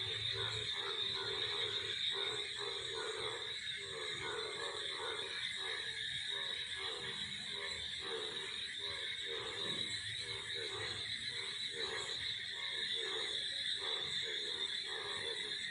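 Cicadas droning in a steady high whine, with frogs croaking over and over underneath, about two croaks a second.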